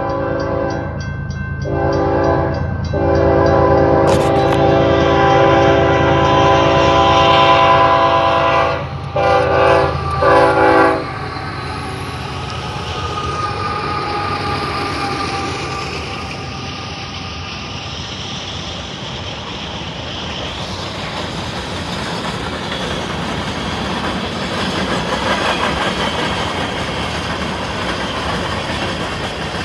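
A freight locomotive's multi-chime air horn sounding a salute: broken by two brief gaps, then one long blast and a few short toots that end about eleven seconds in. After that, the train's diesel locomotives and freight cars roll past with a steady rumble and wheel clatter.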